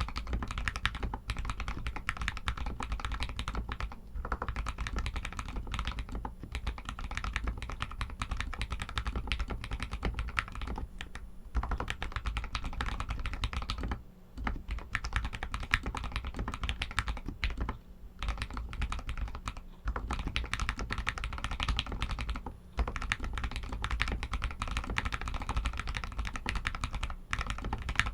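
Royal Kludge RK61 mechanical keyboard with Outemu red linear switches being typed on fast and continuously, a dense stream of keystroke clicks and clacks. It stops briefly a few times, about four seconds in, near the middle and around eighteen and twenty-two seconds.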